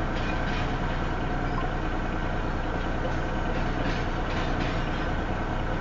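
Intermodal stack freight train rolling slowly past at about 11 to 14 mph: a steady low diesel drone with the rumble of the cars on the rails.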